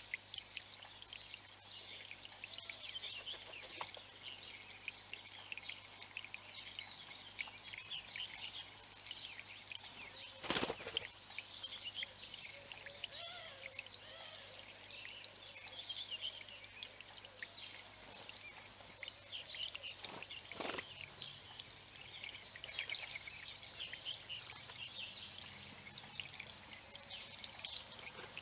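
Many small birds singing at once, a dense, continuous chorus of short chirps and trills. A brief loud sound cuts through about ten seconds in, and another weaker one about twenty seconds in.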